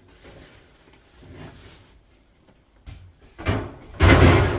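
Metal scrap parts being handled: faint rustling, a sharp click just before three seconds in, then a loud scraping clatter near the end, like sheet steel sliding and being set down.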